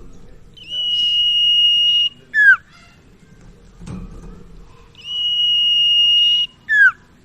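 Common iora (sirtu/cipoh) calling twice. Each call is a long, level, high whistle of about a second and a half, followed by a short note that drops steeply in pitch.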